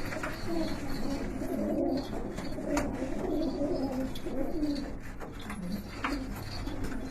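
Domestic pigeons cooing, several low rolling coos overlapping one another, with a few sharp clicks.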